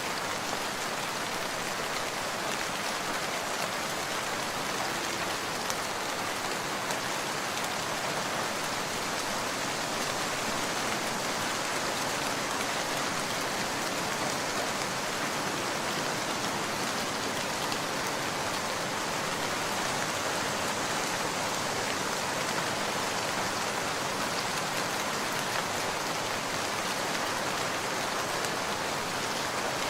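Steady rain falling, an even hiss of drops on surfaces with no change in strength.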